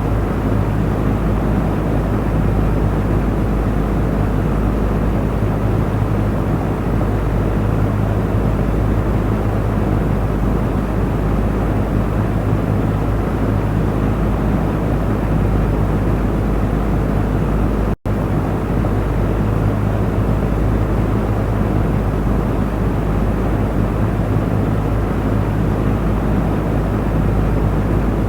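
Electric fan running steadily: an even rush of air over a low motor hum. It cuts out for an instant about two-thirds of the way through, then carries on unchanged.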